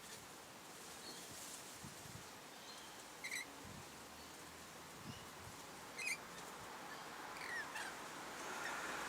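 Birds giving three short, sharp calls, spaced a few seconds apart, over a faint steady background hiss.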